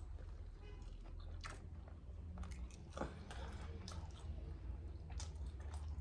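Close-miked mouth chewing and biting into fried chicken wings, with scattered sharp crunches of the flour-dredged coating over a steady low hum.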